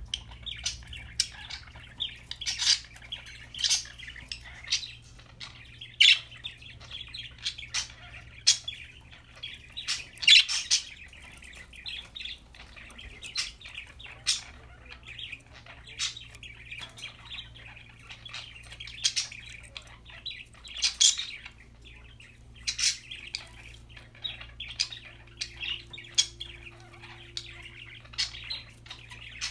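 Budgerigar chattering without a break, with sharp, louder chirps every second or two.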